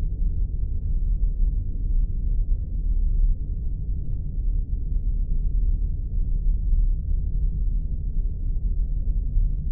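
Spaceship ambience sound effect: a steady, deep, muffled rumble with nothing high in it, like a starship's engine hum heard from inside.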